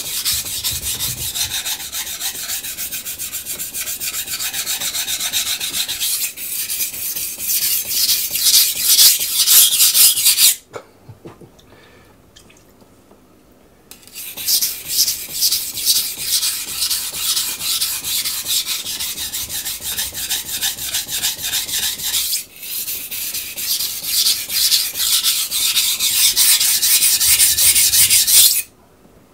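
Steel knife blade scraping back and forth in quick, rhythmic strokes on a coarse, wet Miyagoshi waterstone, raising a burr on the second side of the edge. The strokes stop for about three seconds near the middle, then resume.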